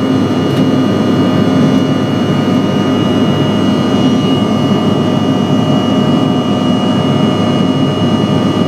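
Bombardier CRJ700's GE CF34 turbofan jet engines running steadily in flight: a dense, even rush of air and engine noise with several fixed high whining tones over it.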